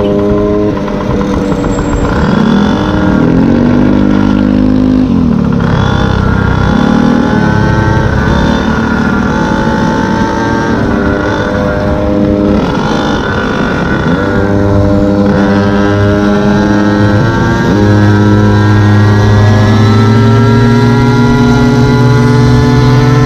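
Small two-stroke gas stand-up scooter engine running under way, its pitch rising and falling with the throttle and climbing steadily near the end as it accelerates.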